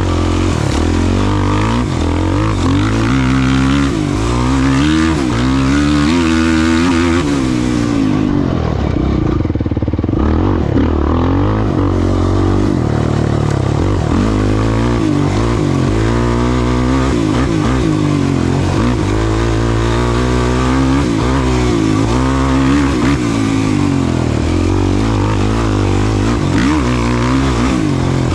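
Off-road race vehicle's engine revving up and down again and again under hard throttle, easing off briefly about eight seconds in.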